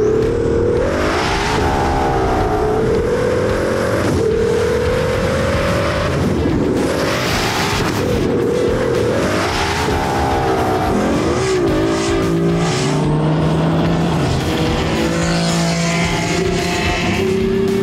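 Twin-turbocharged Ferrari F12 V12 engine running hard on track: its pitch climbs several times with a drop between climbs, as at upshifts, then holds steadier near the end.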